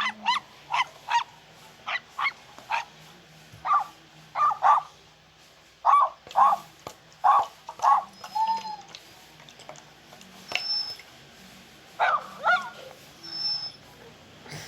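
Puppies yipping: short, high-pitched barks in irregular runs, several a second at times, with a pause of a few seconds in the middle.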